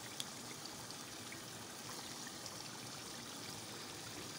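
Chicken qorma masala frying on the stove with a soft, steady sizzle, the almonds just added. There is one light tick just after the start.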